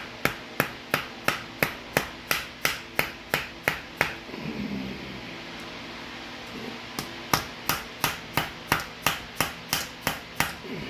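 Sharp, evenly spaced hammer taps, about three a second, driving a barbed fitting into a rubber air hose. About a dozen come first, then a pause of roughly three seconds, then about ten more.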